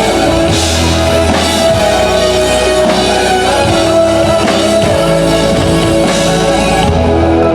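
Pop-rock band music played loud: drum kit with cymbals, bass and guitar keep a steady groove, with no singing.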